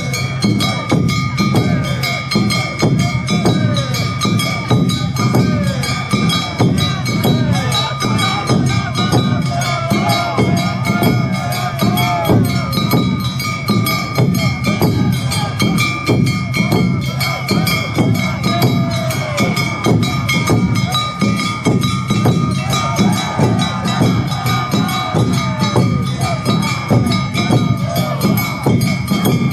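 Awa Odori festival band (narimono) playing the dance music: drums and a struck metal gong beating a steady, driving rhythm, with other instruments and crowd voices mixed in.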